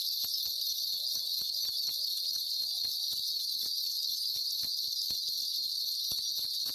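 A shaman's cluster of small brass bells (mugu bangul) being shaken continuously: a steady high jingling with many irregular little clicks. It starts just before and carries on without a break.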